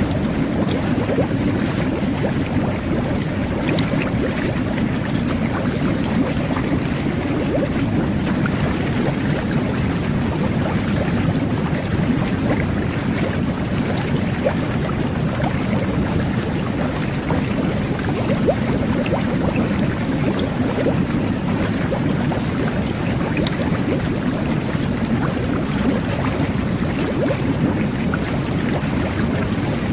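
Jet bath (whirlpool tub) running: water churning and bubbling steadily under the surface, with a constant low rumble and many small bubble pops.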